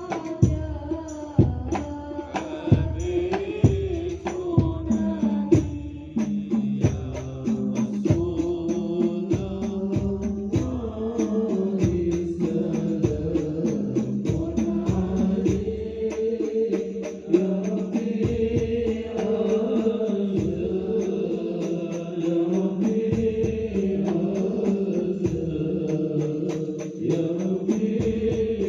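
Devotional chanting in a melodious voice. Sharp hand-drum beats accompany it through the first ten seconds or so; after that, long held chanted notes take over.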